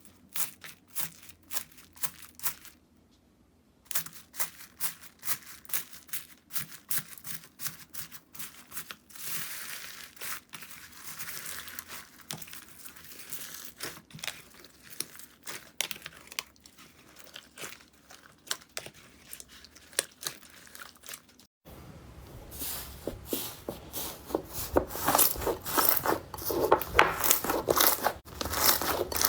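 Slime being squeezed and poked by hand: a run of sharp, wet pops and crinkly crackles. About three quarters of the way through the sound cuts abruptly to a denser, crunchier crackling.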